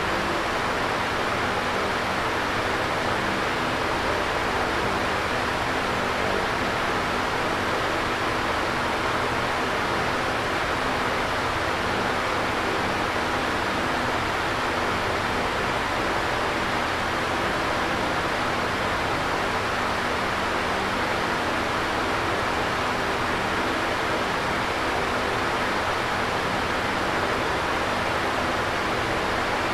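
Electric fan running steadily: an even whooshing of moving air with a faint low hum from the motor underneath.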